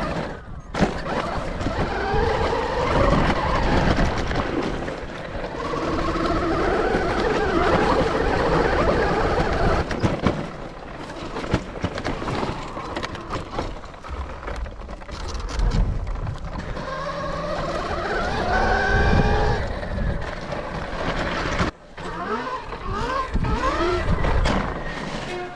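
Rawrr Mantis X electric dirt bike riding: the electric motor's whine rises in pitch again and again as the throttle is opened, over a steady low rumble.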